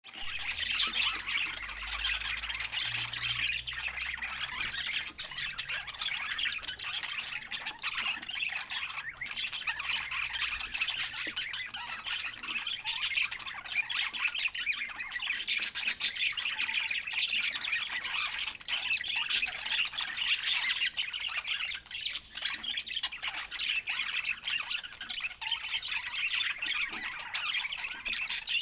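Budgerigars chattering nonstop, a dense run of quick, overlapping high calls.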